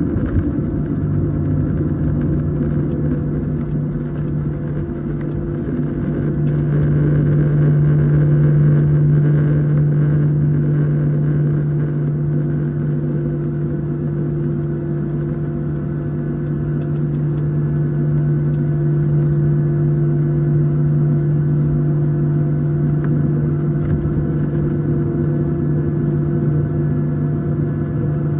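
Boeing 737-700's CFM56-7B jet engines at taxi power, a steady drone with a constant hum heard inside the cabin, swelling slightly about eight seconds in.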